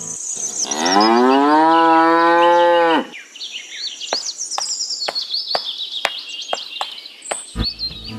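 A cow mooing once, a long call that rises in pitch and then holds for about two seconds, with birds chirping high over it and on after it.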